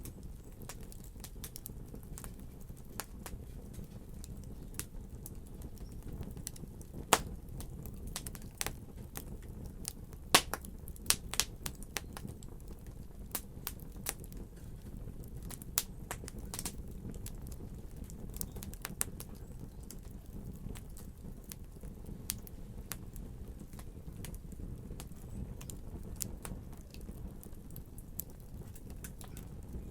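Fire crackling: irregular sharp pops and snaps over a steady low rumble, with the loudest pops about seven seconds in and a quick run of them around ten to twelve seconds.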